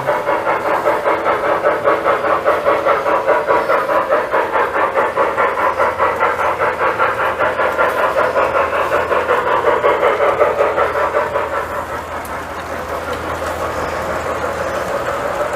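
Lionel model train running on the track, with a rhythmic chuffing and hiss of about four beats a second that smooths into a steadier rolling sound near the end.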